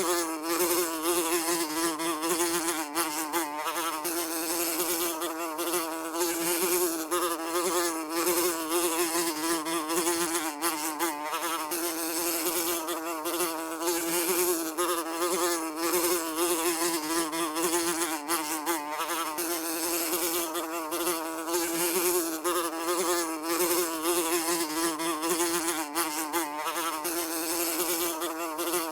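Housefly buzzing continuously, a steady droning pitch with a slight waver.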